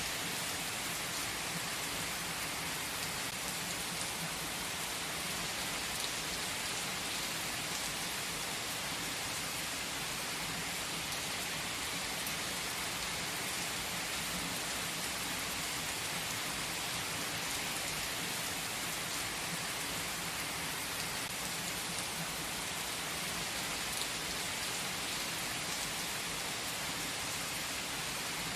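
Steady, even hiss like falling rain, with faint scattered ticks and no music or voice.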